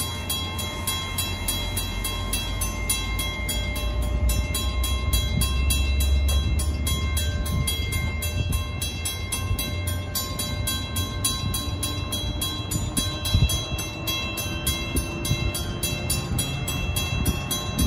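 Metra commuter train of bilevel gallery cars rolling past and pulling away, a heavy low rumble of wheels on rail that swells a few seconds in. Over it a steady ringing, typical of a grade-crossing bell, and from about ten seconds in a slowly rising whine as the train speeds up.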